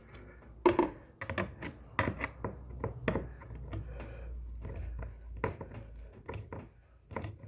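Irregular clicks and knocks of hand tools working on the washing machine's gearbox mounting bolts as they are tightened, several a second, over a low steady hum.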